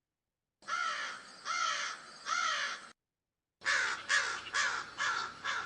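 Recorded crow cawing: three caws about a second apart, then after a short break a faster run of caws, roughly two a second.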